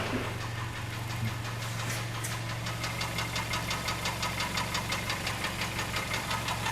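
Hyundai-Kia G4KD 2.0-litre four-cylinder engine running at idle with a regular knock, about six a second, that grows clearer a couple of seconds in. It is the knock of scored cylinders for which the engine is being overhauled.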